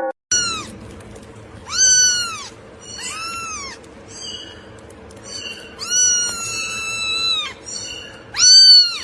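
A cat meowing over and over: about six meows, each rising then falling in pitch. The longest is drawn out for about a second and a half around six seconds in, and the last comes near the end.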